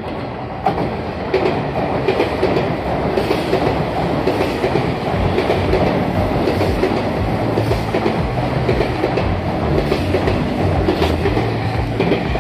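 Sotetsu 9000-series electric train in navy-blue livery running alongside the platform, its wheels clacking over the rail joints over a steady rumble. It gets louder a little under a second in as the cars reach the microphone.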